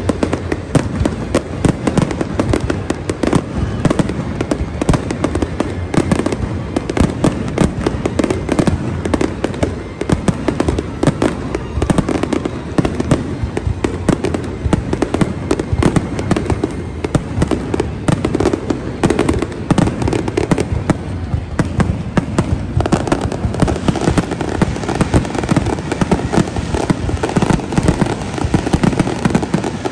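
Aerial fireworks display: a dense, unbroken barrage of shell bursts and crackling, many bangs a second, with the crackle growing denser in the last several seconds.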